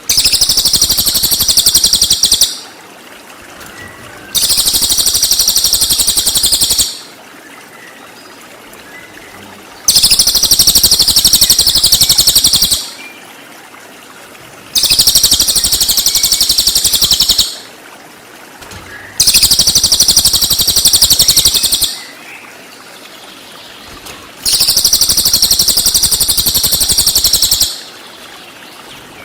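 Cililin bird song: bursts of rapid, high-pitched chattering, each about two and a half seconds long, repeated six times with short pauses between.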